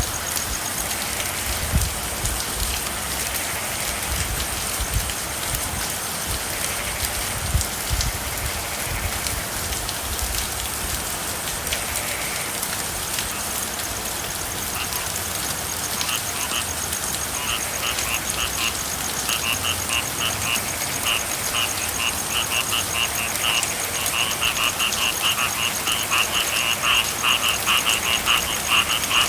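Steady rain with frogs croaking. A fast pulsing frog chorus comes in about halfway and grows louder toward the end, and there are a few low thumps in the first several seconds.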